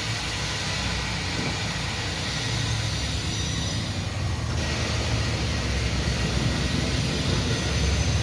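Steady motor-vehicle noise: a dense low rumble with a hiss over it.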